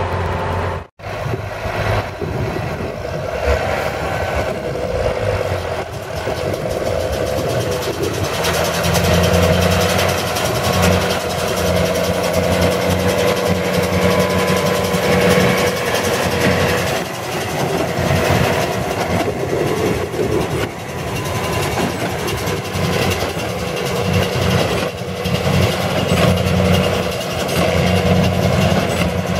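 Engine of farm machinery running under varying load while hay bales are unloaded and stacked, its note shifting and getting louder about eight seconds in. The sound breaks off for an instant about a second in.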